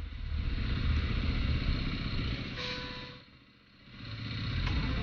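Dirt bike engine idling steadily. A short pitched beep sounds about two and a half seconds in, and the sound drops out briefly a little after three seconds before the idle returns.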